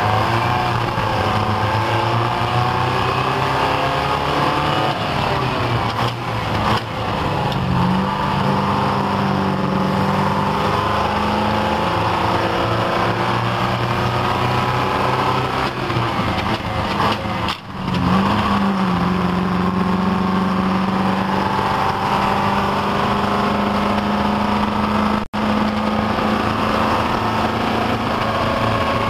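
GMC tow truck's Detroit Diesel 4-71 two-stroke diesel engine running loud and steady. Its pitch rises about a quarter of the way in, then dips briefly a little past halfway before rising again. The sound cuts out for an instant near the end.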